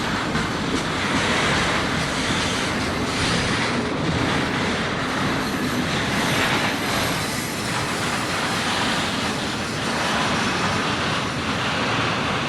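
Train cars rolling steadily past, a continuous noise of wheels on rail with some clatter.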